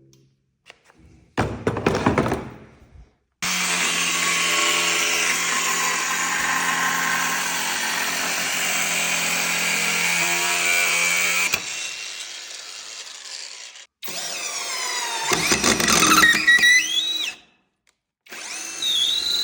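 Battery-powered power tools, a cordless angle grinder, drill-driver and rotary hammer, run in several separate bursts of motor running. The longest is a steady run of about eight seconds that winds down. Near the end a burst rises in pitch as a motor speeds up.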